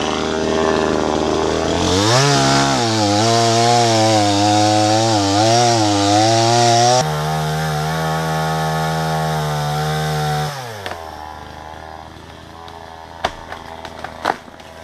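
Chainsaw revving up and cutting into a dry tree trunk, its pitch wavering under load, then held at high revs and dropping off about ten seconds in. A few sharp cracks of wood follow near the end as the cut opens.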